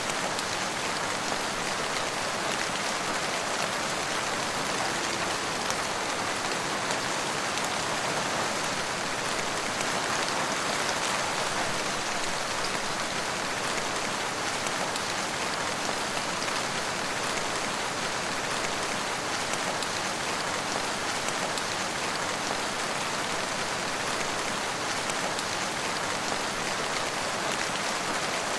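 Steady rain falling, a dense even hiss of drops with fine patter on surfaces.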